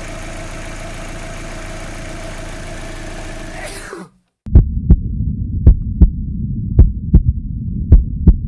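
Opel Astra H's Z16XEP engine idling steadily, running without extra noise after the repair. It cuts off suddenly about four seconds in, and after a brief silence a heartbeat-like double thump repeats about once a second over a low hum.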